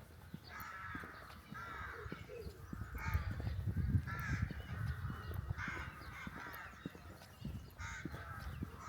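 Crows cawing, a run of short, harsh calls coming about once a second.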